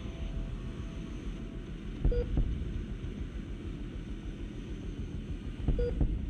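Steady low vehicle rumble with road or wind noise. A short, high electronic beep sounds twice, about two seconds in and again near the end.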